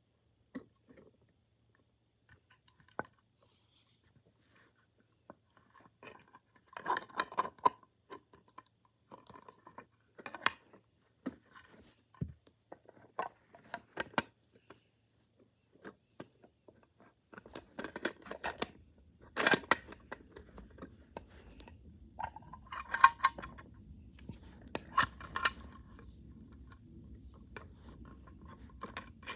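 Plastic parts of a toy garbage truck clicking, clattering and ratcheting in irregular bursts as it is handled, with quiet gaps between. A low steady hum comes in about halfway through.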